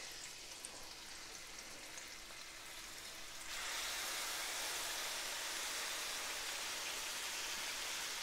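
Pancetta sizzling in a hot stainless steel pan. About three and a half seconds in, the sizzle jumps louder and stays there as chopped mirepoix and red pepper are tipped in from a bowl.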